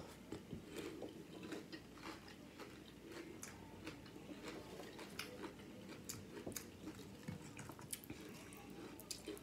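Someone chewing Flamin' Hot Doritos nachos: faint, irregular crunching of the tortilla chips, a few crunches a second.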